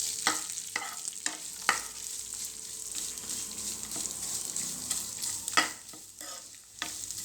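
A tempering of mustard seeds, dried chillies, curry leaves and grated coconut sizzling in hot oil in a pan while it is stirred, the spoon knocking against the pan: four knocks in the first two seconds and a few more near the end.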